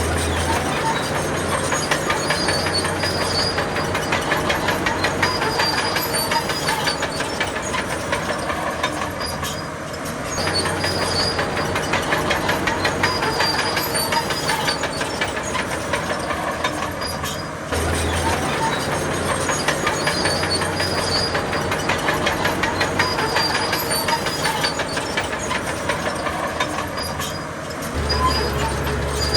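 Heavy diesel earthmoving machinery working: a steady engine note under a dense, rapid metallic clatter, with the deep engine hum rising and falling as the load changes. The sound cuts abruptly to a new take about eighteen seconds in.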